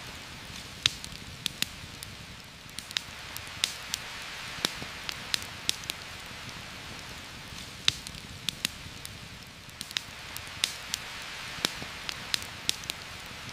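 Steady hiss of heavy rain, with a campfire's sharp, irregular crackles and pops a few times a second over it.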